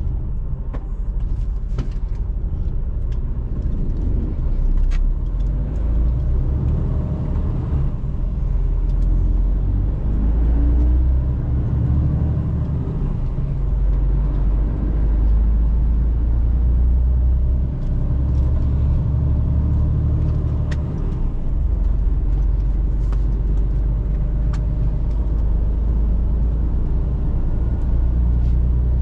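Mercedes-Benz Actros truck on the move: a steady low engine and road drone, with a few short faint clicks here and there.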